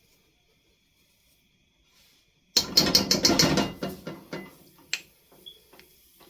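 Kitchen clatter: about two and a half seconds in, a loud burst of rapid rattling clicks fades out over a second or so, followed by a few scattered clicks.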